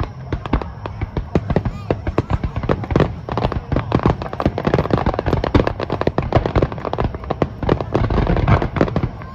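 Aerial fireworks going off in a rapid barrage: many sharp bangs and crackles in quick succession, several a second, with hardly a gap between them.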